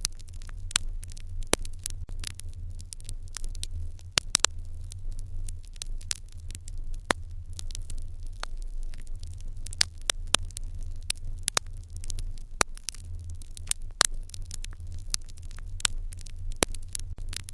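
Wood fire in an irori hearth crackling, with many sharp irregular pops and snaps, several a second, over a steady low hum.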